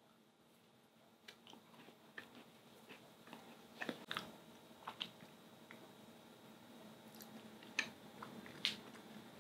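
Biting into and chewing a mocha macaron that has been frozen for three months. The crisp shell gives faint crunches, with a few sharper cracks scattered through; the loudest come near the end.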